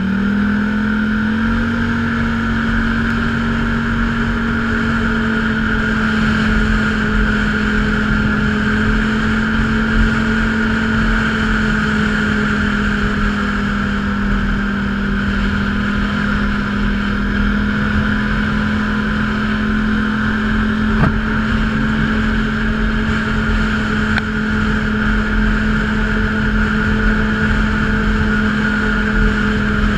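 Small off-road vehicle engine, a quad or trail motorbike, running at steady high revs under way, its pitch holding constant. A single sharp click about two-thirds of the way in.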